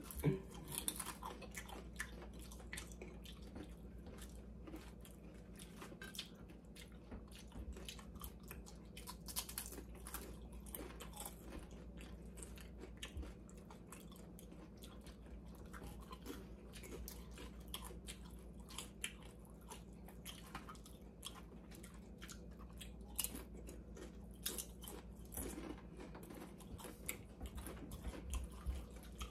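Chewing and crunching of corn tortilla chips: a steady run of small crisp crunches, with a few louder bites now and then.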